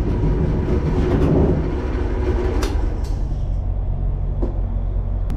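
Drill press motor running with a steady hum, louder and rougher for about the first second and a half, then steadier, with a couple of short sharp clicks later on.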